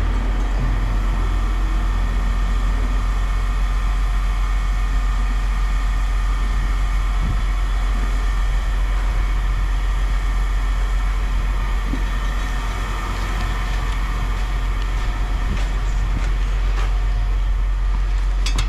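Machinery running steadily with a low rumble. A few light clinks come near the end.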